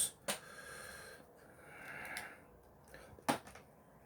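Quiet handling of a plastic gummy-candy package and tray: two sharp taps about three seconds apart, with soft rustling between them.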